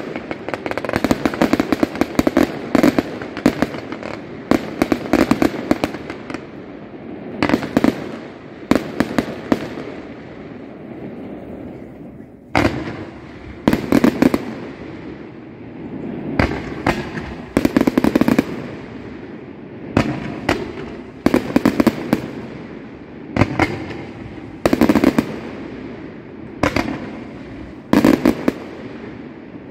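Fireworks display: rapid salvos of shell bursts for the first several seconds, a short lull, then single loud bangs every second or two over a steady rumble.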